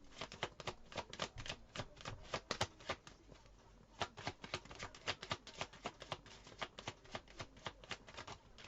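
Tarot cards being shuffled by hand: a run of quick, irregular card clicks and slaps, with a brief pause about three seconds in.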